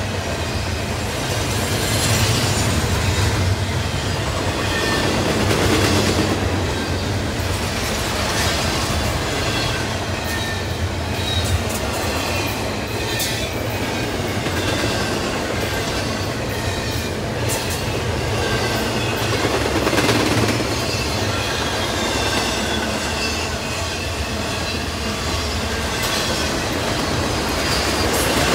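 Double-stack intermodal freight cars rolling past: a steady rumble of steel wheels on rail, with faint high wheel squeals wavering in pitch and occasional sharp clicks as wheels cross rail joints.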